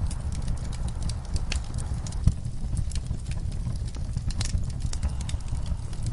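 Wood fire crackling in a fireplace: a steady low rumble of flame with irregular sharp pops and snaps, one louder pop a little over two seconds in.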